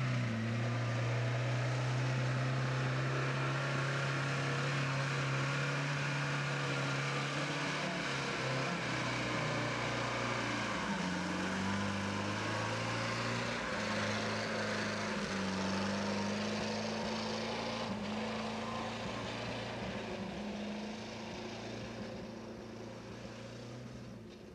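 UAZ-469's four-cylinder petrol engine running as it drives through mud. The engine note holds steady, then goes higher and wavers from about eleven seconds in, and fades as the vehicle drives away near the end.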